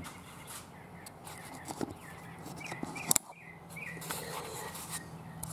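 Quiet room tone with a few faint clicks and taps, the sharpest about three seconds in, and a few short bird chirps in the second half.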